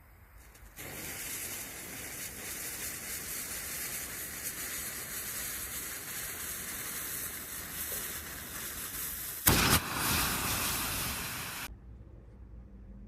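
Firework hissing steadily, with a short, much louder burst of bangs about nine and a half seconds in. The hiss cuts off abruptly shortly after.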